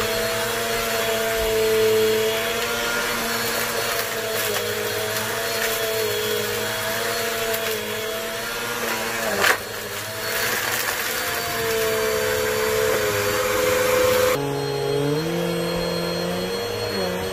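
Vacuum cleaner running steadily as it sucks up dirt and powder, its motor pitch wavering with the changing load. A sharp crackle, as of debris rattling up the hose, comes about nine and a half seconds in. Near the end the sound changes abruptly to a duller hum with shifting tones.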